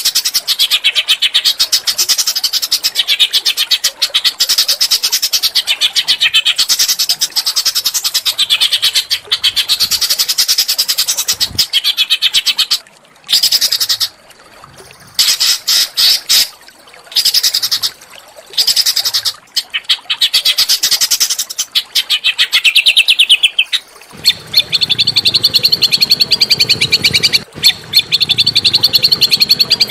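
Small songbird singing dense, very fast, harsh trills and chatters, broken by a few short pauses. About three-quarters of the way in, the song settles into a thin, even high trill over a lower, steady sound.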